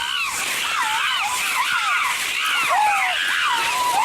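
A group of chimpanzees calling: many overlapping high, wavering cries that rise and fall in pitch.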